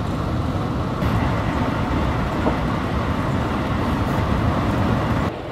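Running noise of a JR local train heard from inside the carriage: a steady rumble of wheels on the track, a little louder about a second in. It drops suddenly to a quieter level near the end.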